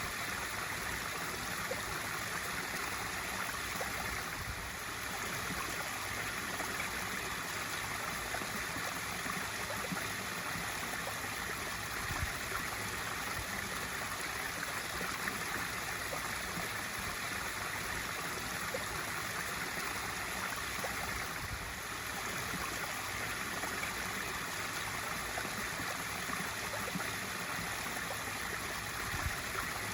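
Pool waterfall: water spilling steadily and splashing into the pool, a continuous even rush with small fluctuations.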